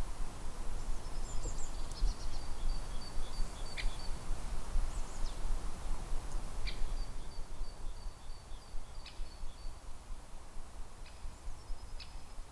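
Wind rumbling on the microphone in a winter forest. Over it a small bird sings three high, thin phrases of rapidly repeated notes, each lasting a couple of seconds.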